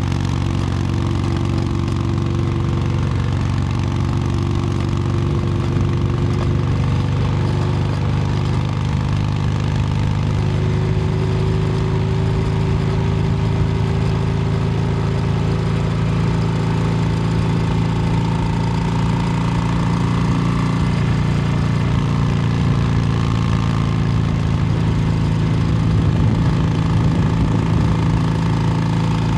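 2022 Harley-Davidson Low Rider S Milwaukee-Eight 117 V-twin running through an S&S Superstreet 2-into-1 exhaust while riding, the engine note steady and shifting only gently in pitch.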